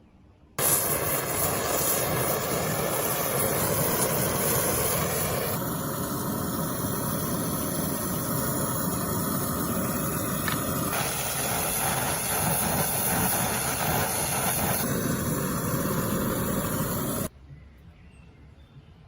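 A power tool running loudly with a steady hissing noise, its character shifting a few times as it works. It starts abruptly about half a second in and stops sharply a couple of seconds before the end.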